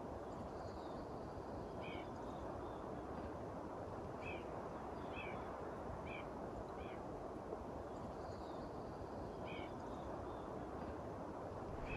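A bird giving about six short, sharp chirps, spaced irregularly, over a faint steady background hiss.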